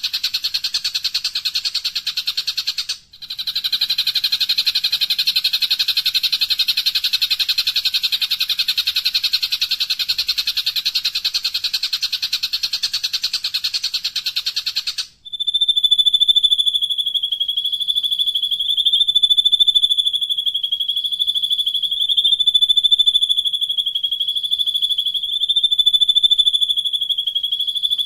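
Recorded songbird calls for bird training. First comes a fast, rasping trill, broken once about three seconds in. About halfway through it switches abruptly to a steady, high, shrill tone with a slight wobble.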